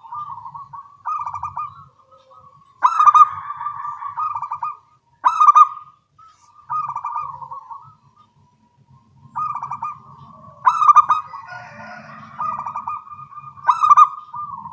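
Zebra doves (local-type perkutut) cooing back and forth: several birds answer one another with short phrases of quick pulsed coos every second or two, some louder and nearer than others.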